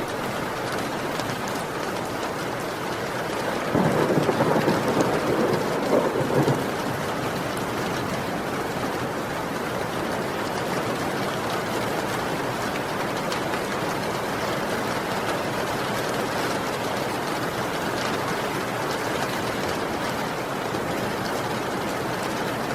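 Heavy rain falling steadily, with a roll of thunder about four seconds in that lasts around three seconds and then fades back into the rain.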